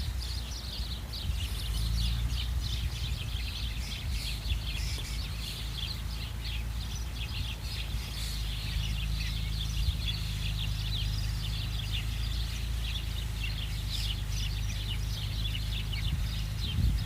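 Small birds chirping over and over in quick short notes, over the steady low drone of a distant tractor engine.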